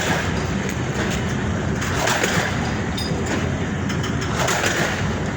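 Passenger train moving along the track, a steady, even noise of wheels on rail.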